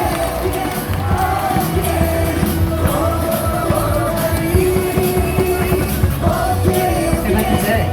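Loud music with a steady beat and singing, played over a baseball stadium's sound system.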